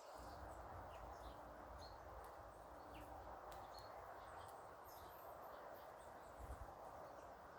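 Faint, scattered short bird chirps over a steady background hush and low rumble.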